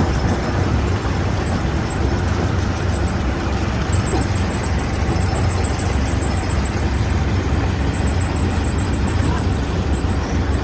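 Stone crusher machinery running steadily: a continuous deep rumble under an even grinding roar, with no separate knocks standing out.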